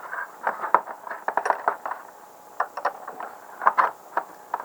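Irregular metallic clicks and clinks of a wrench working at an overly tight fastener on a small-engine carburetor.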